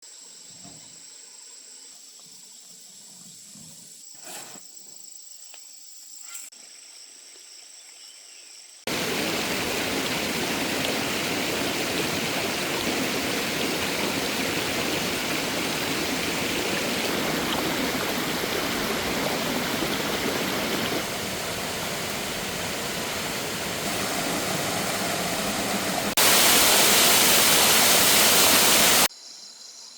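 Faint steady insect chirring with a couple of soft knocks, then about nine seconds in a loud, steady rush of water begins abruptly. It gets louder in steps, is loudest near the end, and cuts off suddenly.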